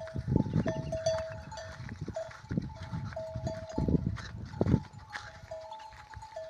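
Flock of sheep on the move, with bleats and short ringing tones repeating at two fixed pitches, and irregular low thumps.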